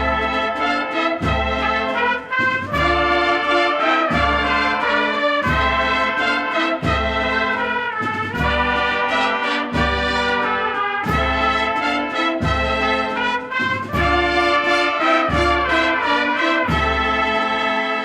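Brass band playing a slow processional march, with trumpets and trombones carrying sustained chords over a steady, slow bass-drum beat.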